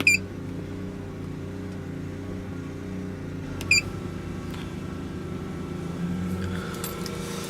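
Steady low electrical hum with two short, high electronic beeps, one at the very start and one about three and a half seconds later, as the diagnostic scan tool is stepped through its menus.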